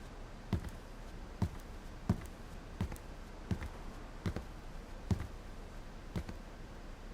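Footsteps on a hard floor indoors: slow, even steps about every three quarters of a second.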